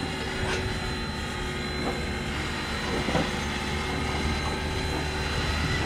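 A train running on its rails: a steady low rumble with a few faint clicks.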